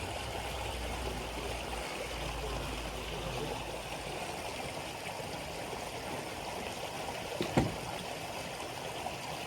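Steady rush of flowing creek water, with a single sharp knock about seven and a half seconds in.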